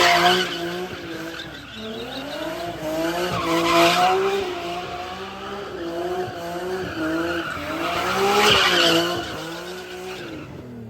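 Car engine held at high revs with tires squealing, the engine pitch wavering up and down; the tire noise swells about every four seconds.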